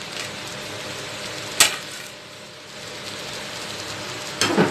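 Pan of chicken fried rice sizzling steadily as the chicken is stirred in, with a sharp knock about one and a half seconds in and another near the end.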